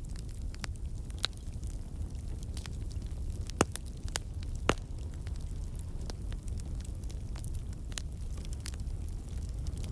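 Wood fire in a fireplace crackling: irregular sharp pops and snaps over a steady low rumble, with two louder pops about a second apart near the middle.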